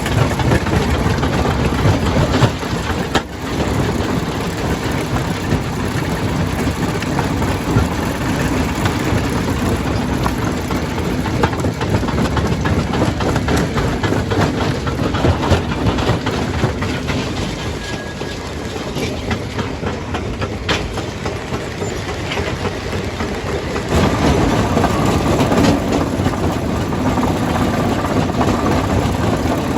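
Stone crusher running and crushing rock: a steady heavy machine din with frequent knocks and clatter of stone. It grows louder about six seconds before the end.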